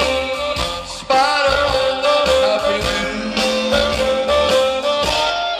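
Rock and roll band playing, with guitar and a held, wavering melody line between sung phrases; the sound drops briefly about a second in, then picks up again.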